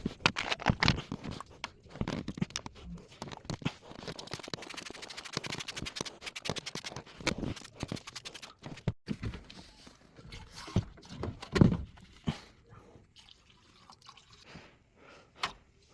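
Irregular knocks, scrapes and handling noises from gear for flushing an air conditioner's condensate drain line, with dripping liquid.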